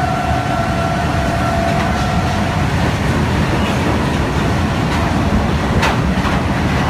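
Goods train of open freight wagons rolling past at speed: a loud, steady rumble and clatter of wheels on rail. A steady high tone runs through the first few seconds and stops, and there is one sharp metallic clank near the end.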